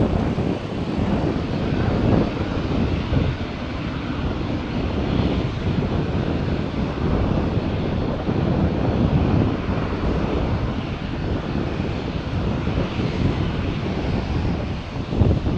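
An aircraft's engines running as a plane passes: a steady, loud rush of noise heaviest in the low end, rising and falling slightly.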